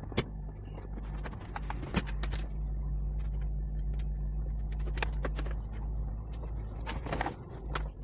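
Scattered clicks and knocks of plastic parts and tools as the car's air-conditioning box is worked loose from under the dashboard, over a steady low hum.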